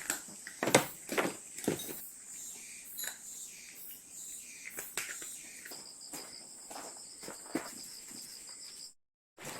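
Insects, crickets by their sound, chirring steadily in a high, even tone, with a second pulsing chirp joining about six seconds in. Several short knocks and taps break through, the loudest in the first two seconds. The sound cuts out briefly near the end.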